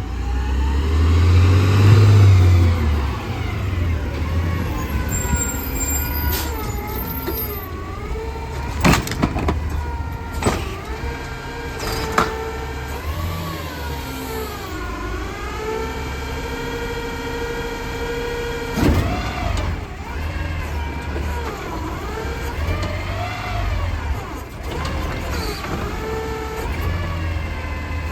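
Garbage truck at work: its diesel engine runs and revs under load, with a whine that rises and falls, and a few sharp knocks.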